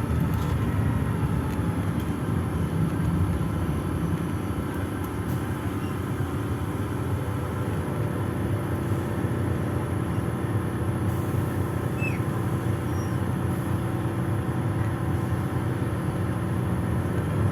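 Inside the cabin of a PAZ-422320-14 Citymax 9 city bus under way: the engine and road noise make a steady low rumble.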